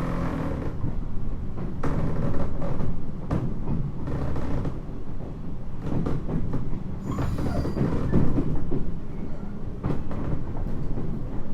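Running noise inside a 719 series electric train car: a steady low rumble with irregular clacks as the wheels cross rail joints. Near the middle there is a brief high hiss. The uploader puts the jolts and extra noise down to track in poor condition.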